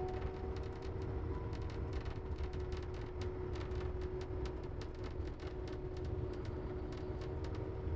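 Snowcat grooming machine running steadily: a low rumble with a constant whine and rapid, irregular clicking.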